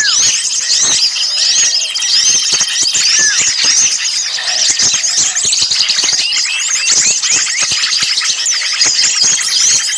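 Dense, noisy chorus of many small songbirds chattering and twittering at once: rapid overlapping high chirps with a few lower falling whistles. It is an agitated, mobbing-style mix of small-bird calls of the kind played as a lure to draw birds in.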